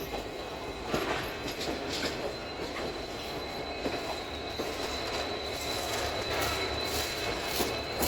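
Passenger train rolling along the track, its wheels giving a steady high-pitched squeal over the running rumble, with a few clicks from the rails.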